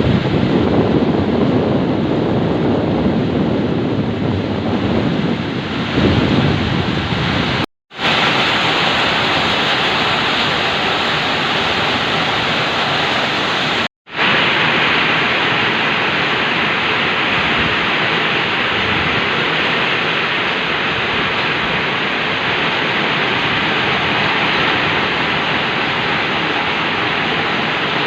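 Heavy rain falling in a steady hiss, with wind rumbling on the microphone for the first several seconds. The sound cuts out completely for a split second twice, about eight and fourteen seconds in.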